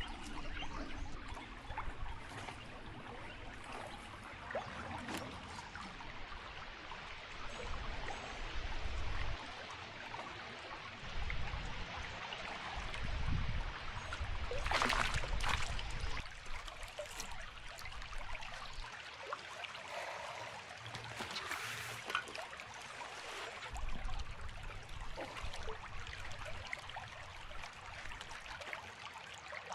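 Creek water trickling and running steadily, with patches of low rumble and a brief, louder rush of noise about halfway through.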